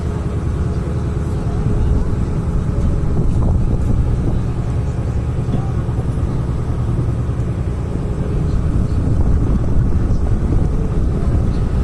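Ferry's engine running with a steady low drone, with voices in the background.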